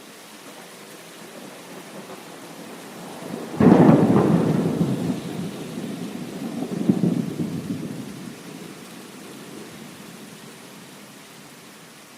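Thunder over steady heavy rain: a rumble builds, then a loud clap breaks about three and a half seconds in and rumbles on, swelling again a few seconds later before dying away under the rain.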